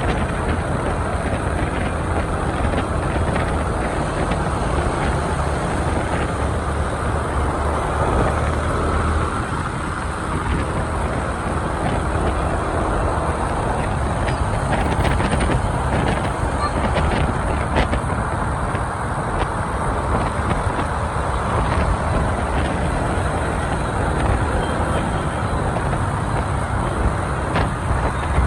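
Motorbike riding in busy city traffic: the steady running of a scooter engine and the road noise of the motorbikes around it.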